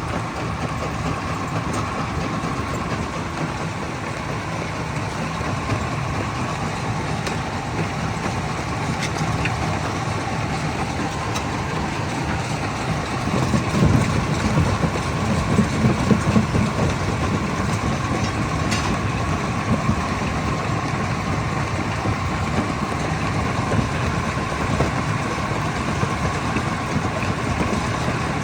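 Stone crusher plant machinery running steadily, with a continuous whine over a low rumble. About halfway through, the rumbling grows louder and rougher for a few seconds as rock goes through the crusher.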